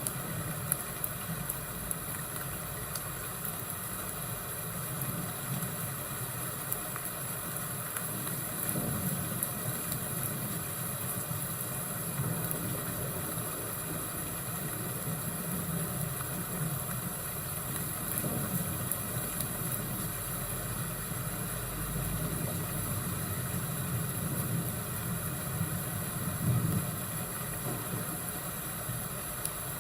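Fireplace and thunderstorm ambience: a steady low rumble that swells now and then, with scattered small crackles over a constant hiss.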